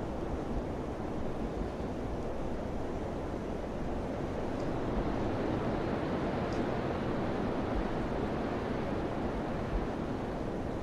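Summer wind blowing steadily in a long, even rush that swells a little in the middle.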